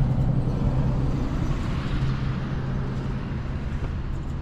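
A motor running steadily, a low even hum with a fast fluttering pulse underneath.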